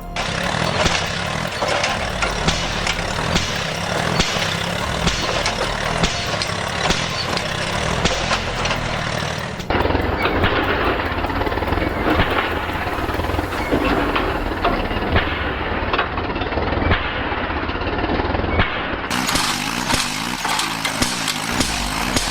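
Tractor engines running hard with a clattering rumble, across several back-to-back clips; the sound changes abruptly about ten seconds in and again near nineteen seconds.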